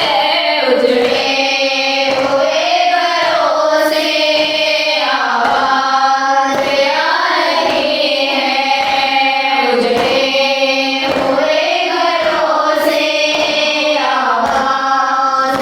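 Voices chanting a noha, a Shia lament, with a steady beat of low thumps running under the singing.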